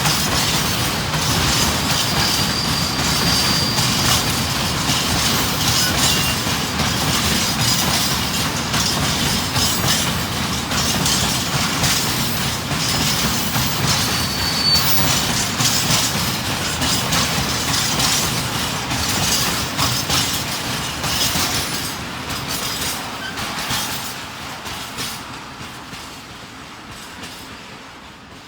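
A train rolling past at close range, its wheels clattering on the rail joints with brief high wheel squeals. The sound fades away over the last several seconds as the train moves off.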